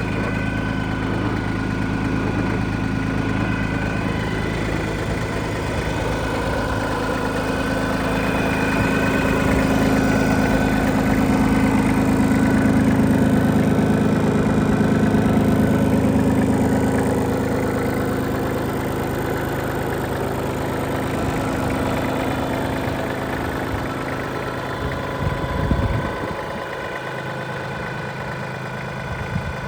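Iseki TPC15 crawler tractor's engine running steadily, growing louder in the middle and then easing back. A few knocks come near the end, after which the deep rumble drops away.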